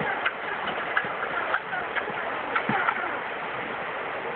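Steady rush of river water, with scattered short chirps and a few sharp clicks over it.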